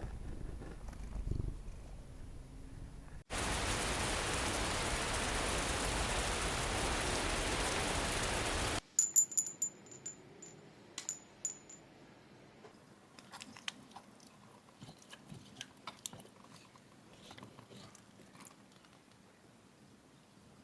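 A domestic cat purring with a low rumble, then a loud steady hiss for about five and a half seconds that starts and stops abruptly. After the hiss come a quick cluster of sharp high clicks and then scattered light clicks and rustles.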